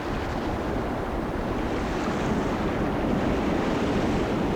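Steady rushing of water, like surf or a strong current, growing slightly louder partway through.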